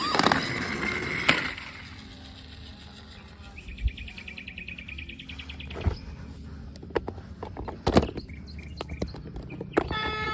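Plastic toy cars being handled: a loud knock at the start, then scattered sharp clicks and knocks, with a short burst of rapid high electronic chirping about four seconds in.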